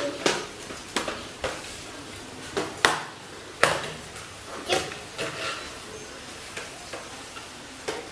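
Irregular light clicks and knocks, one every half second to a second, as of small hard objects being handled; no vacuum motor is running.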